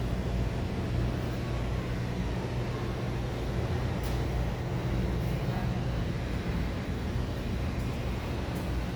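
Steady rushing rumble of a waterfall in a penguin exhibit, with a constant low hum underneath.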